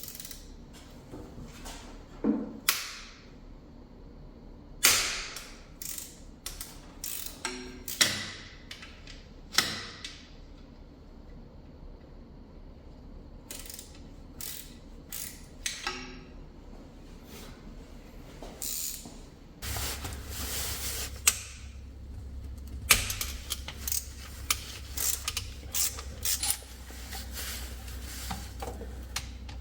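Hand tools working on bolts: irregular clicks and metallic clinks of a socket ratchet and sockets, some in quick clusters. A low steady hum comes in about two-thirds of the way through.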